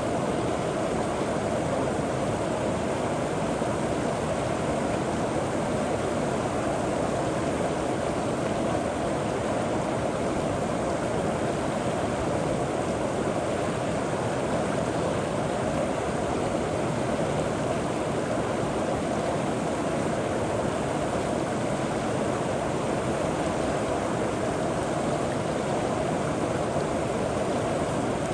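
River water flowing steadily over rocks, a constant rushing sound.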